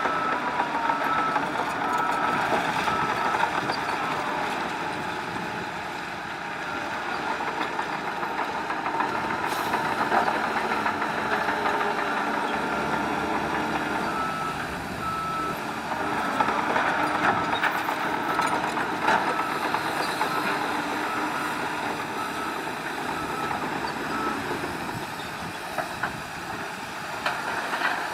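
Heavy diesel earthmoving machinery running, with a vehicle's reversing alarm beeping at an even pace over it and a few short knocks.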